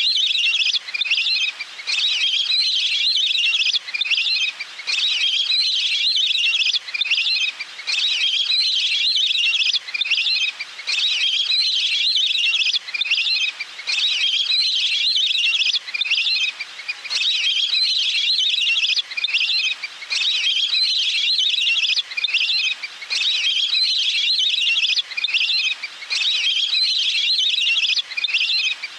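Wild duck call recording used as a decoy lure: a high, trilling chatter repeated over and over in phrases about a second long, with brief gaps between them.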